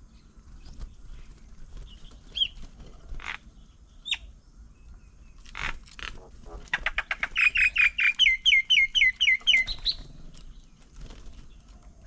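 Birds calling: a couple of short single chirps, then a fast run of repeated chirping notes, about four a second, lasting roughly three seconds in the second half.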